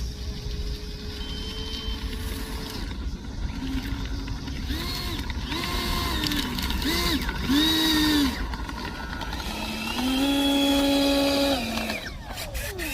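Electric ducted-fan motor of an RC F-35 jet, throttled up in several short bursts, each rising, holding and falling in pitch. Then comes one longer, louder burst of about a second and a half, and a falling whine as it spools down near the end.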